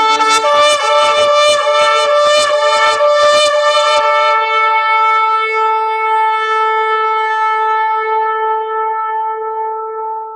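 A shofar blown in a rapid run of short broken notes for about four seconds, then held as one long steady note that slowly fades.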